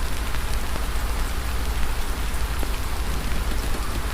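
Campfire crackling: a steady hiss with scattered small pops and a low rumble underneath.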